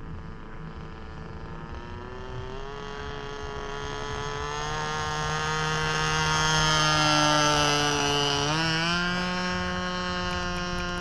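Magnum glow engine of a radio-controlled Cessna 182 model plane running in flight. It grows louder towards the middle and fades a little, and its pitch steps up sharply about eight and a half seconds in, as the throttle opens.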